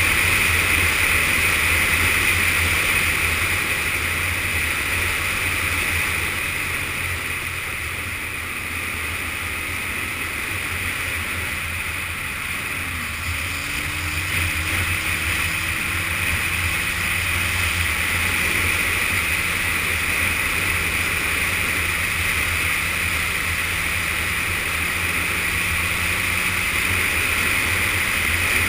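Yamaha FZS600 Fazer's inline-four engine under way, with heavy wind rush on an action camera's microphone. The sound eases off for a few seconds, then the engine note rises again about halfway as the bike picks up speed.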